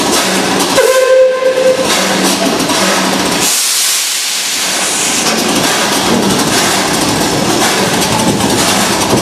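Steam locomotive whistle blowing one short note of about a second, a little under a second in, then a loud hiss of escaping steam starting about halfway through.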